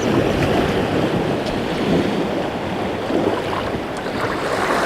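Sea waves washing against a rocky shoreline, the noisy wash swelling and easing, with wind buffeting the microphone.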